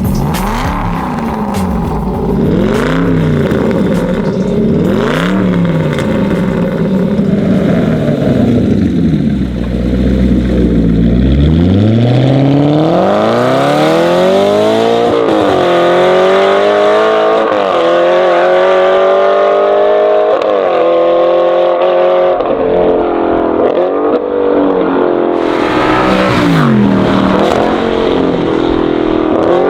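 Aston Martin V8 Vantage S's 4.7-litre V8 through a full aftermarket exhaust with catless downpipes. It is revved in short repeated blips for about the first ten seconds, then pulls hard with the pitch climbing and dropping back at each of several upshifts, and there are more blips near the end.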